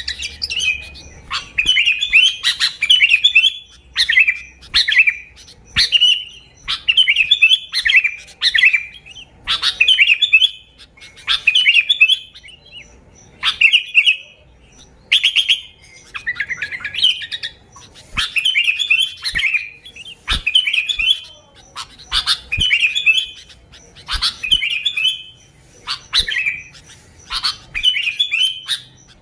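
Sooty-headed bulbul singing its lively chattering song: short bubbly, warbling phrases repeated about every second or so without a break.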